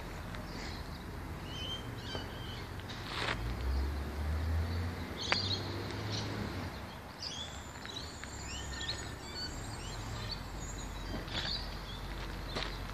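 Several birds chirping and calling on and off over a low, steady background rumble, with one sharp tick about five seconds in.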